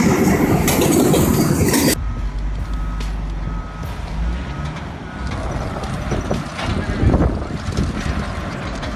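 Loud, harsh rushing noise that cuts off abruptly about two seconds in, followed by heavy machinery running with a low rumble, a faint steady beep and a louder knock near the seven-second mark.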